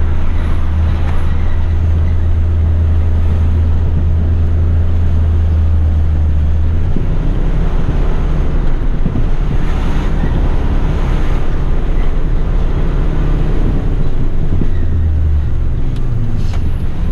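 Heavy rigid truck's diesel engine and road noise heard inside the cab while driving. A strong low engine drone drops away suddenly about seven seconds in and comes back briefly near the end.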